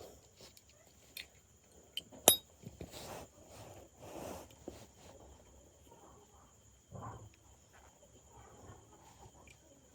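Small metal parts of a PCP air rifle clicking and clinking as they are handled and fitted, with a few sharp ringing metallic clicks, the loudest about two seconds in, and softer handling knocks. A steady thin high tone, like crickets, runs underneath.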